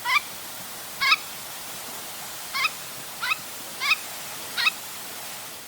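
Jack snipe calling: six short, harsh single notes at uneven intervals, over a steady recording hiss.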